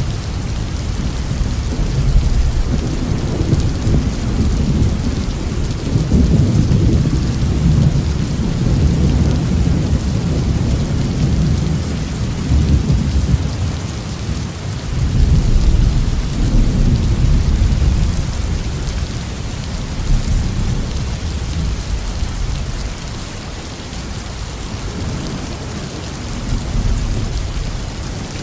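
Heavy rain falling on a roof, a steady hiss, with deep rolling thunder that swells twice and fades toward the end.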